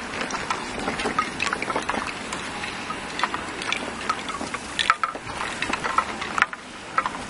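Blizzard wind blowing hard: a steady rushing hiss with many small, irregular ticks through it.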